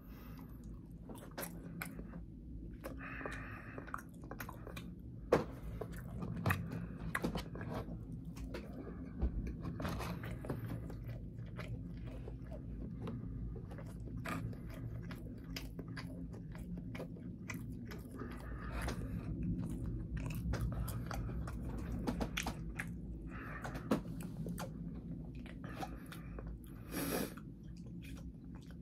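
Close-up mouth sounds of eating: steady chewing with many sharp crunching bites, with a brief louder noisy burst near the end.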